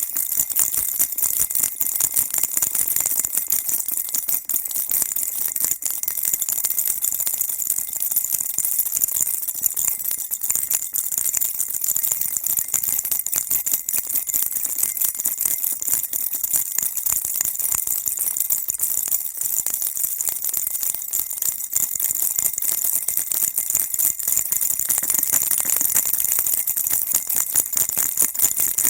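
Baby rattle shaken continuously: a dense, high-pitched rattling jingle with no pauses.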